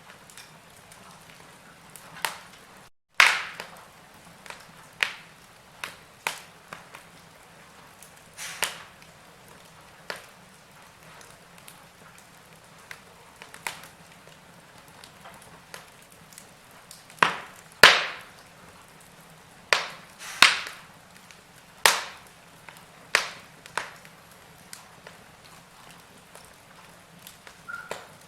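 Wood fire crackling, with irregular sharp pops every second or two over a faint steady hiss; the loudest pops come a little past halfway. The sound cuts out for a split second about three seconds in.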